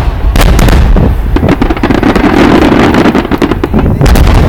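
Fireworks: a rapid barrage of aerial shell bursts, many sharp bangs close together with dense crackling between them and a continuous low rumble.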